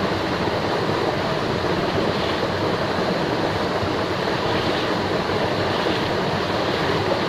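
Steady, even rush of moving water with no let-up.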